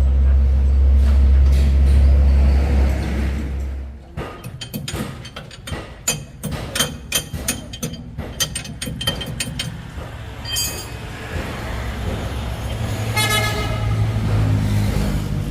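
A vehicle's deep, loud running rumble that drops away about four seconds in, followed by a run of sharp clicks and knocks and two horn toots, a short one and then a longer one near the end.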